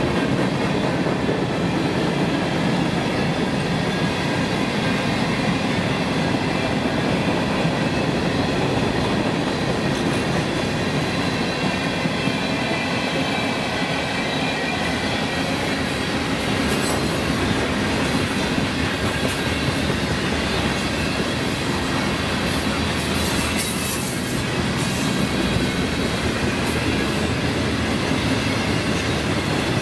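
A train rolling past on the tracks, its cars' wheels running steadily over the rails, with a few brief high-pitched wheel squeals along the way.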